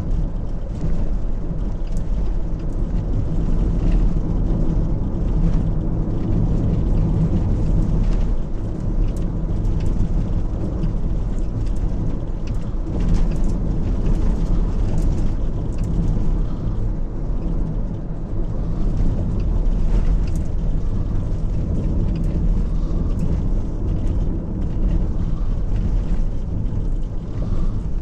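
Car driving over a badly broken, potholed asphalt road: a steady low engine and road rumble with frequent knocks and rattles as the wheels hit the holes.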